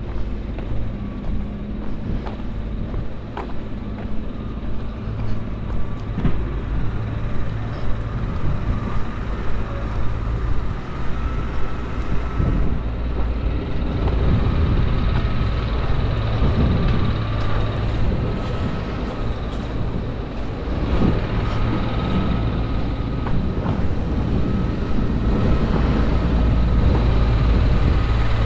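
A heavy road vehicle's engine runs close by: a steady low rumble with a held whine, growing a little louder toward the end.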